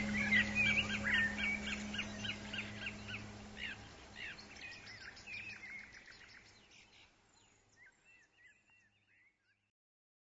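Songbirds chirping and singing rapidly, several calls overlapping, over a low steady hum; everything fades out gradually to silence near the end.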